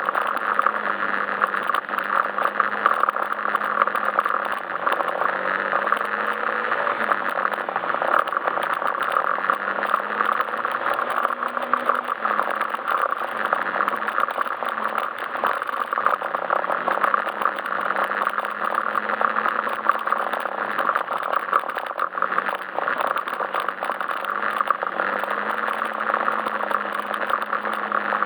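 Yamaha Majesty S SP scooter's single-cylinder engine running at a steady, slightly varying speed on the move, with frequent small knocks and rattles.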